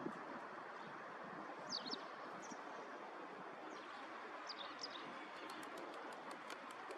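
Steady outdoor background hiss with several brief, high, falling chirps of small birds, and a quick run of faint ticks near the end.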